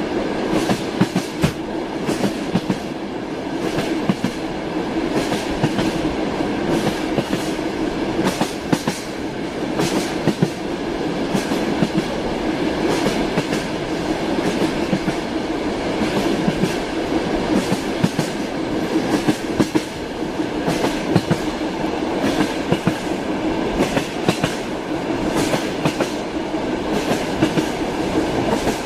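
Moving train: a steady rumble with the wheels clattering over the rails in a continuous run of sharp clicks.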